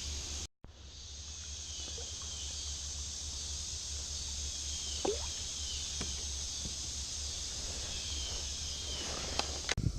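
Outdoor ambience dominated by a steady high insect drone, with short falling chirps repeating every second or so and a low rumble underneath. The sound drops out completely for a moment about half a second in.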